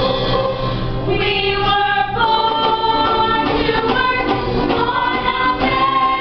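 A stage cast singing together in harmony, moving through a phrase and then holding a long chord from about two seconds in.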